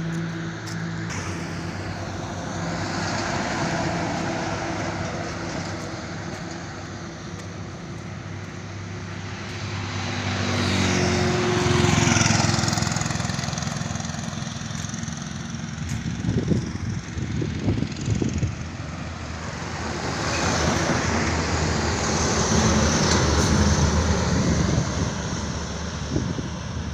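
Road vehicle engine running, with road noise that swells and fades twice.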